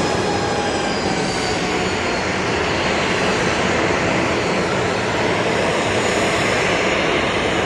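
HH-60G Pave Hawk helicopter's twin turboshaft engines and rotor running, a steady loud noise with a faint high whine.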